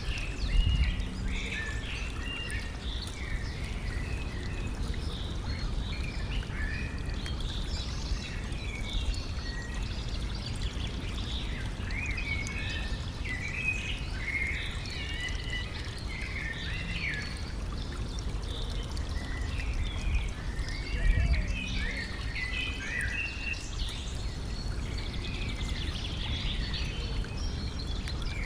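Stream water trickling and running steadily while several songbirds chirp and sing almost continuously. Two brief low thumps stand out, one about a second in and one about two-thirds of the way through.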